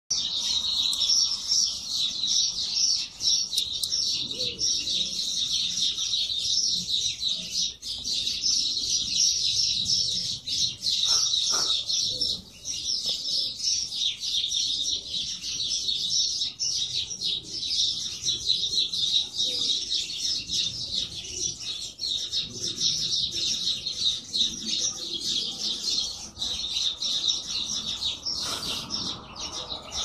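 Small birds chirping steadily, many high calls overlapping without a break.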